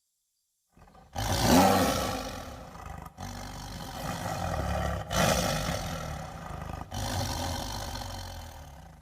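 A large animal's deep, rough roars: four long calls in a row after about a second of silence, each starting abruptly, the first the loudest.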